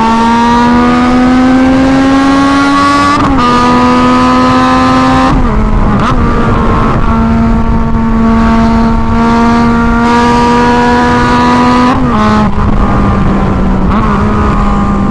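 Yamaha MT-09's three-cylinder engine running through a straight pipe with no silencer, loud as it pulls along the road. The pitch rises slowly for about three seconds, drops with gear changes about three and five seconds in, then holds steady with short dips later on.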